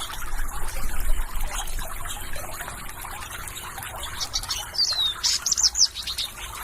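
Water trickling steadily, with a bird calling a little past the middle: a short falling whistle, then a quick run of high chirps.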